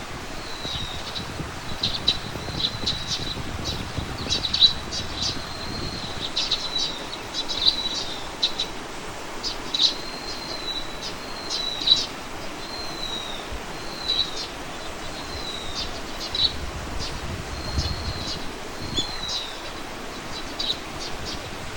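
Small birds singing and calling: many short high chirps and brief downward-sliding whistled notes, coming irregularly throughout.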